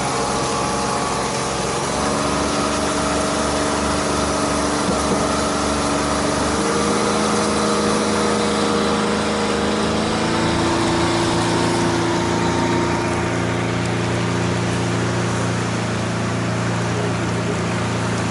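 Outboard motor driving a large motor raft, running steadily. Its pitch shifts a few times as the throttle changes.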